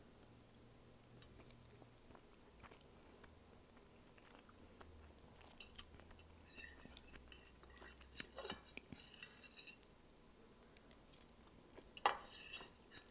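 Quiet, close-miked chewing of a mouthful of spicy ramen noodles, with a fork scraping and clinking on a plate as more noodles are twirled up. The sharpest clink comes near the end.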